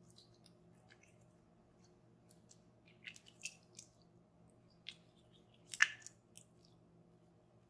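Hands handling toy packaging and plastic: scattered soft crinkles and taps, with one louder crackle about six seconds in, over a faint steady low hum.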